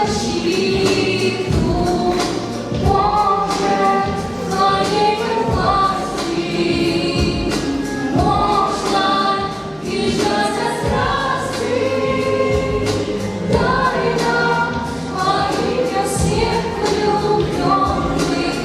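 A song: several voices singing together over a backing track with a steady beat.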